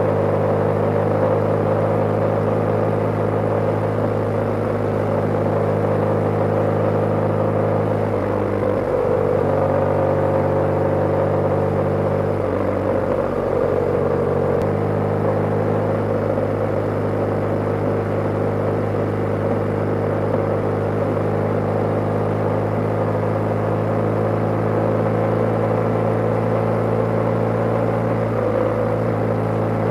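BMW G/S motorcycle engine running steadily while riding, with road and wind noise. The engine note breaks and shifts briefly about eight seconds in, and again from about twelve to fifteen seconds in, then settles back to the same steady note.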